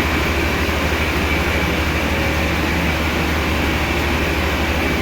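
Heavy machinery running steadily: a deep, pulsing hum under a wide noise, with a faint high whine above it.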